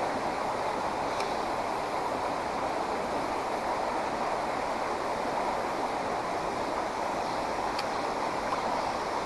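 Creek water flowing in a steady rush, with a couple of faint ticks.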